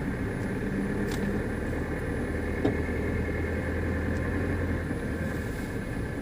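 GAZelle Next van heard from inside the cab while driving: a steady engine and road rumble, with a few faint sharp knocks from under the cab. The knocking appears only in frosty weather on bumps, and its cause is unknown.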